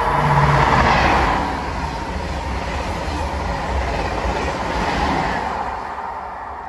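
Thalys PBKA high-speed train passing a station platform at speed: a loud rush of wheels on rails and air, loudest in the first second as it comes alongside, swelling again about five seconds in, then fading as it draws away.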